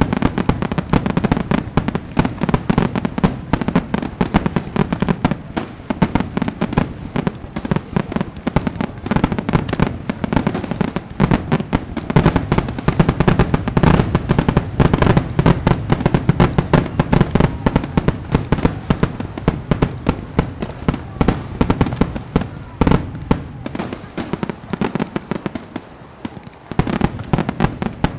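Fireworks display: a dense, continuous barrage of bangs and crackles that thins out and quietens for a few seconds near the end, then picks up again.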